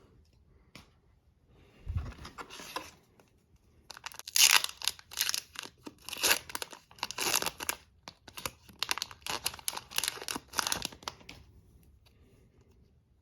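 A hockey card pack's wrapper being torn open and crinkled: a soft bump about two seconds in, then a long run of crackling, tearing strokes from about four seconds in that stops near the end.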